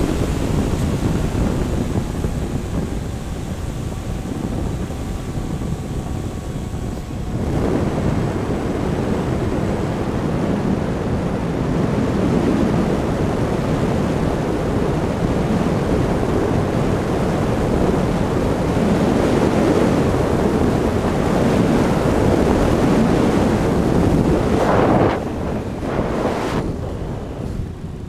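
Airflow rushing over the microphone of a camera riding on a flying radio-controlled electric plane. The electric motor's whine falls in pitch over the first few seconds, and from about seven seconds in the sound is a thick, steady wind rush.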